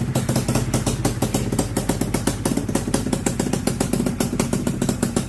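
Honda Odyssey FL250's single-cylinder two-stroke engine running steadily just after a cold start, a fast even train of exhaust pops.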